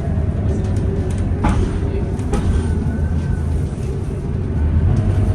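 A city bus's engine running steadily, heard from inside the cabin as a low drone, with scattered rattles and clicks and a faint thin whine near the middle.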